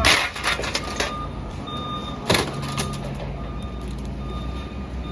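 Vehicle reversing alarm beeping about once a second over a running engine, with a sharp knock at the start and another a little over two seconds in.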